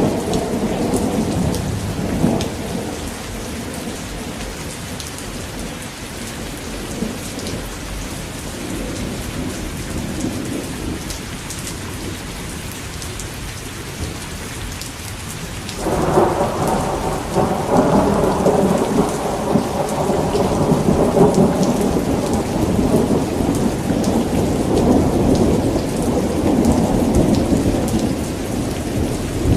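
Steady rain falling, with rolling thunder. A rumble dies away over the first few seconds, then a fresh peal of thunder breaks in suddenly about halfway through and keeps rolling in swells.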